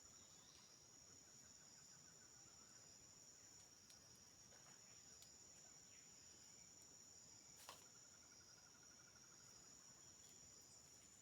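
Faint, steady high-pitched insect trilling in the rainforest, with a lower pulsing trill that fades in and out. There is a single sharp click about two-thirds of the way through.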